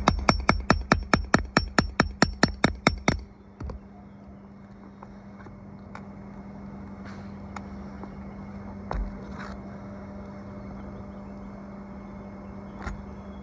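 Hammer striking rapidly, about five even blows a second for the first three seconds, then a few scattered single knocks over a steady low hum.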